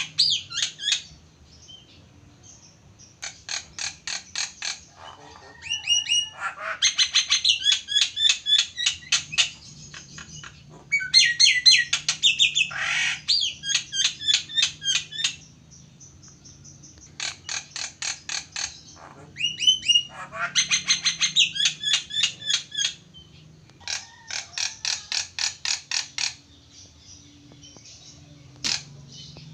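Jalak (starling) singing in bouts of rapid, repeated high chattering notes, each run lasting a few seconds, with short pauses between them.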